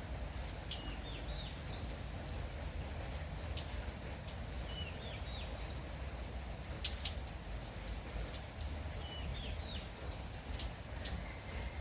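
Light steady rain with scattered sharp drips. A small bird sings a short, rising, chirping phrase three times.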